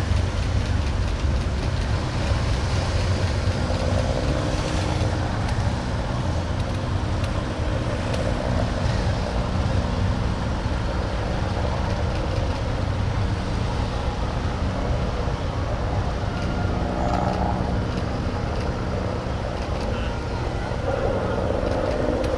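Engines of large police vehicles driving past slowly in a procession, a steady low rumble with a few held engine tones.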